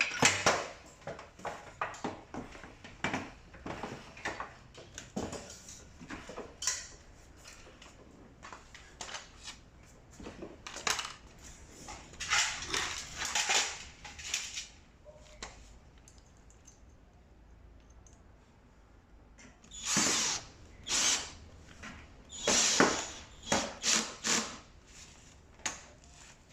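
Power drill driving screws in several short runs of about a second, fastening the back panel of a tumble dryer. Clicks and knocks of the panel and parts being handled come in between.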